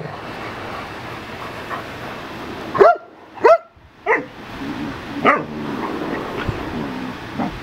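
Dogs at play: one dog gives four short, sharp barks, starting a little under three seconds in, then makes low drawn-out play growls.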